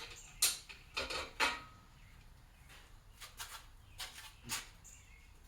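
Short metallic clicks and clinks of engine bolts and parts being handled and set in place, about seven in all, the loudest in the first second and a half.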